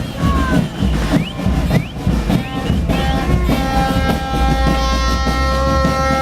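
Horns blown by celebrating football fans over a low rumble of vehicle engines. A few short rising whoops come in the first seconds, then several steady horn tones are held together from about halfway.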